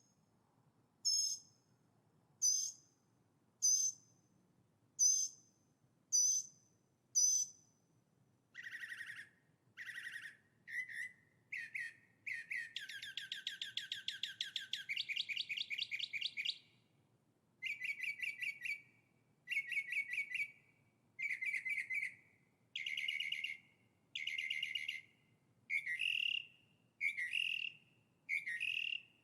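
Songbirds singing: a short, high call repeated about once a second for the first seven seconds, then lower-pitched song with a long rapid trill in the middle, followed by short phrases repeated about once a second.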